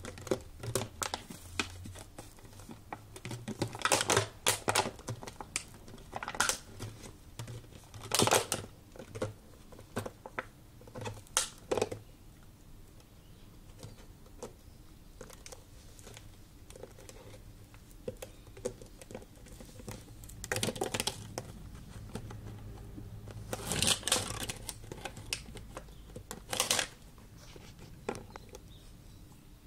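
A dog chewing and batting at a bottle: irregular bursts of crackling and clicking, with a quieter stretch in the middle.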